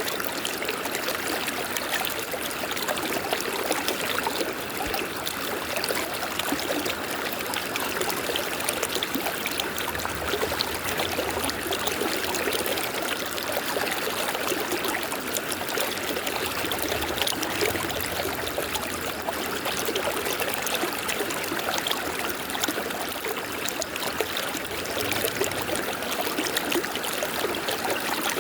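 River water running over stones, a steady burbling rush with fine splashing detail.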